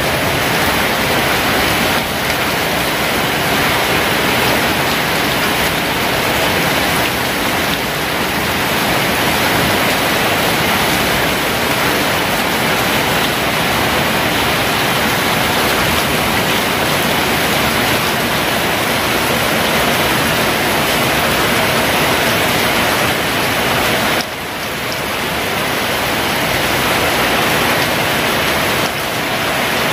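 Heavy rain pouring down in a steady, dense hiss, with one brief dip in level about three-quarters of the way through before it builds back up.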